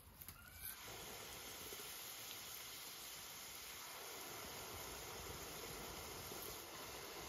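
Potato chunks frying in hot oil in a large cauldron: a steady, even sizzle that starts about a second in.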